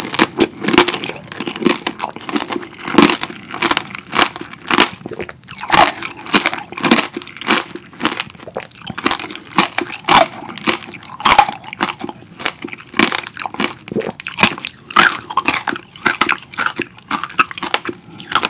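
Close-miked chewing of strawberry tanghulu: the hard candied-sugar shell cracking and crunching between the teeth, mixed with wet chewing of the fresh strawberry, in quick irregular crackles.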